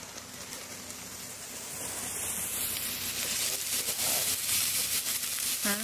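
Peppers and onions frying in oil in a cast iron skillet over a wood fire: a steady sizzle that grows louder over the first couple of seconds, with small scattered pops.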